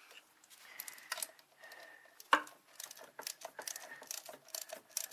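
Socket ratchet clicking in quick runs as a compressor mounting bolt is backed out, with one sharp knock a little over two seconds in.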